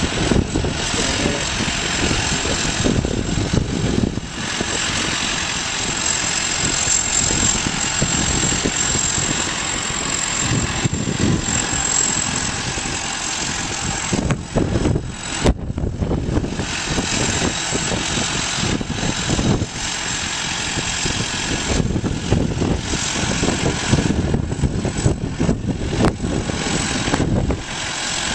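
Farm machinery engine running steadily, with a thin high whine over the engine noise and a few brief dips in level.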